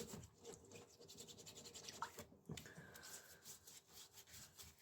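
Faint, irregular scrubbing strokes as a bicycle crank arm is cleaned by hand.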